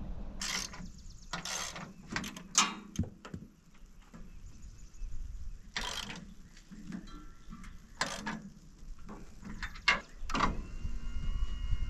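A series of short mechanical clicks, clanks and ratcheting strokes, about eight of them, irregularly spaced. About ten and a half seconds in, a steady mechanical hum with a faint whine starts and keeps going.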